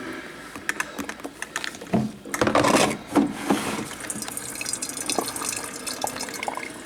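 Black & Decker Thermocraft drip coffee maker brewing: hot water gurgling and spitting with irregular pops and drips, and a louder burst of hissing and gurgling about two to three seconds in.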